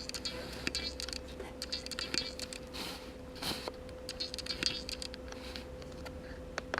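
Scattered light scratches and clicks of a yardstick being handled against a countertop, over a faint steady hum.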